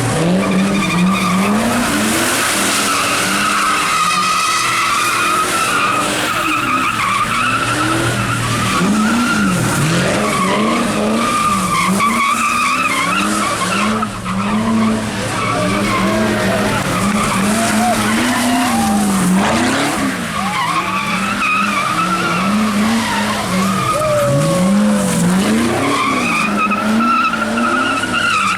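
A car spinning donuts: the engine revs up and drops again over and over while the tyres squeal on and on.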